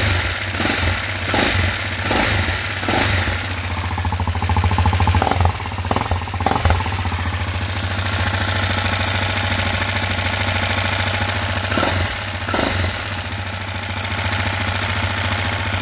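166FMM 250 cc single-cylinder motorcycle engine running with a repeated knock, most marked in the first half, then running more steadily: the knock has come back after the top-end rebuild.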